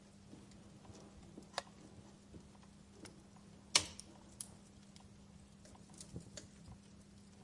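Wood fire crackling: sparse snaps and pops from burning logs, the loudest a sharp pop about halfway through.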